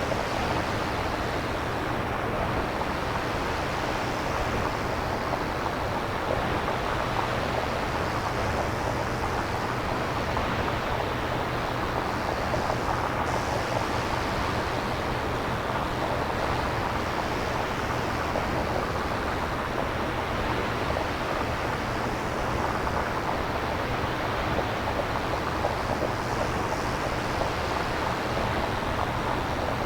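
Synthesized nature ambience: steady filtered noise imitating ocean surf and wind, made by a synthesizer with no recorded samples, with slow swells every few seconds.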